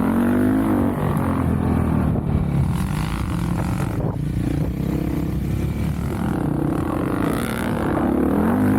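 Off-road vehicle engine running under way, its pitch rising and falling several times as the throttle is worked.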